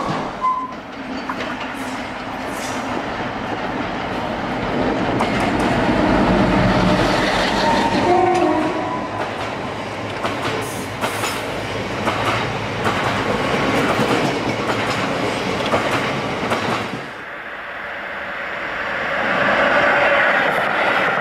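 A diesel freight train passing close by, its wagons clattering over the rail joints, with a short horn note about eight seconds in. After a sudden change at about 17 seconds, a Class 66 diesel freight locomotive is heard approaching and growing louder.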